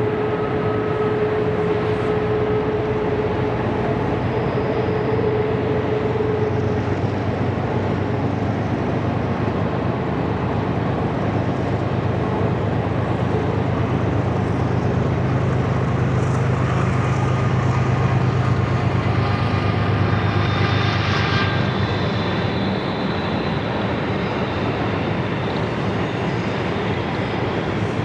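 Freight train running past with a steady, continuous rumble.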